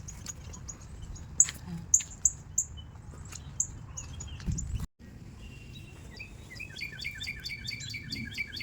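Woodland songbirds: a scattering of short, high chirps over the first half, then a fast run of repeated notes from a different bird starting about two-thirds of the way through. A low steady rumble runs underneath, and the sound drops out briefly just before the halfway point.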